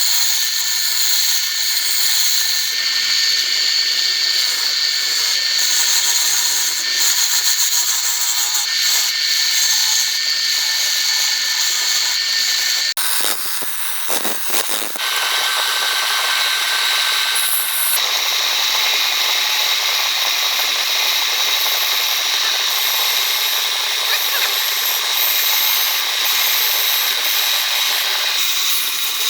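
A handheld electric power tool running steadily against wood, with a steady high whine over the noise of the work. It briefly drops and breaks off about halfway through, then carries on.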